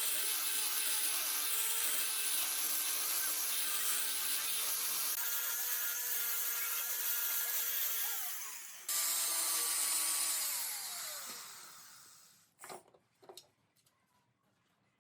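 Wood lathe running, its motor hum under a loud hissing rub against the spinning wood. The hum falls in pitch as the lathe spins down, twice, and fades out, followed by a few light knocks.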